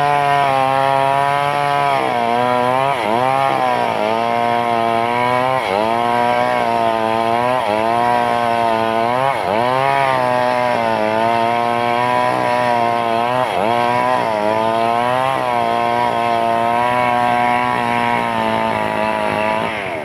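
Stihl two-stroke chainsaw running at high revs while ripping teak lengthwise. Its pitch dips briefly several times as the chain bogs in the cut, then recovers.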